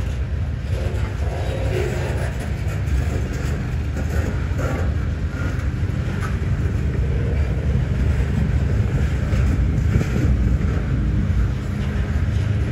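Freight cars rolling slowly past at about 10 mph: a steady low rumble of steel wheels on rail, with faint short squeals and occasional clicks.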